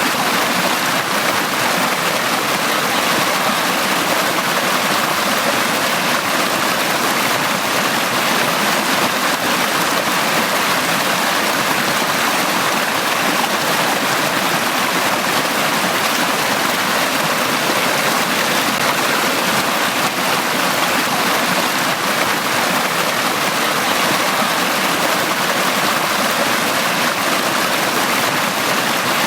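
Valley stream water flowing, a steady, even rush with no breaks or changes.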